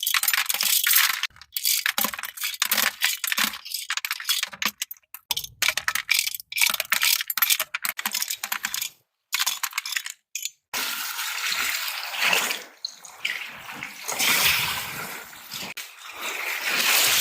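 Quick, irregular clicking and clattering of hard shells and stones knocking together for about ten seconds, then a steady rush of breaking waves and water.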